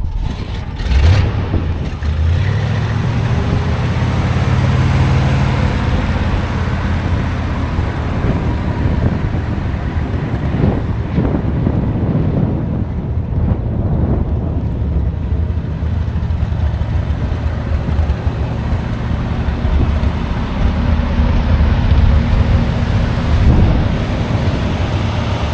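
1969 Ford 600 truck's engine running. Its pitch rises over the first few seconds, then holds steady.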